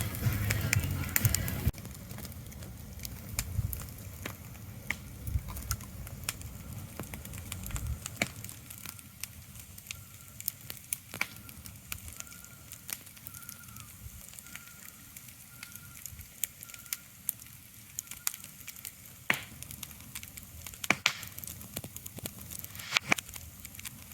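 Ambient sleep soundscape: a soft steady hiss with scattered sharp crackles and clicks throughout. A louder low rumbling layer cuts off suddenly about two seconds in, and a few faint short high chirps come in the middle.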